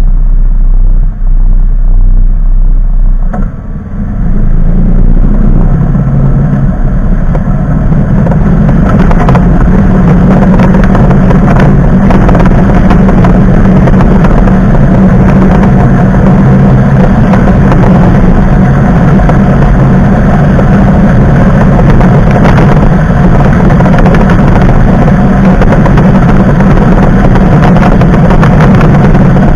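Car engine running loud and steady, with a low drone and a wash of road noise; the sound dips briefly about three seconds in, then holds steady.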